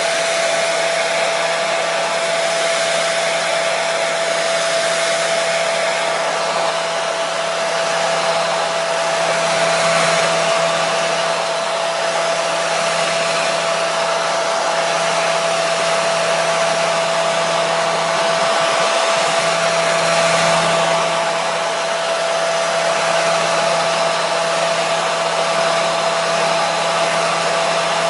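Hair dryer running continuously at a constant setting: a steady rush of air with a steady motor whine under it.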